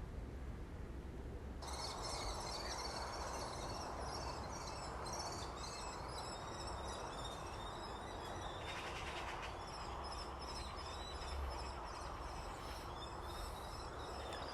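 Young kestrels calling: many short, high-pitched, overlapping calls repeating without pause. The calls start suddenly about a second and a half in.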